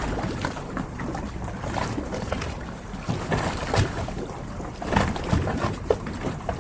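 Small harbour waves lapping and slapping irregularly against the hulls of moored yachts, over a steady wash of water.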